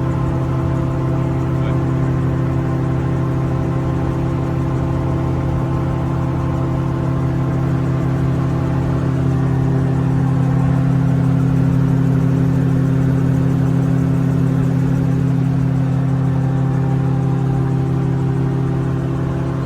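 Magni M24+ autogyro's Rotax 915 iS turbocharged flat-four engine and pusher propeller running steadily under power, heard from on board, with a hum of steady engine tones. It swells slightly louder around the middle, then settles.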